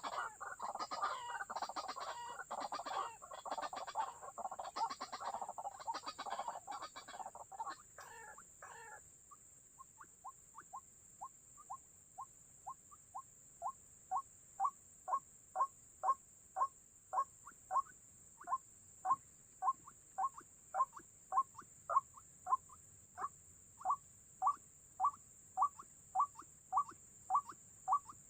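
White-breasted waterhen calling: a harsh, dense croaking chorus for about the first nine seconds, then a steady run of short single notes, about two a second, that build in loudness and then hold level.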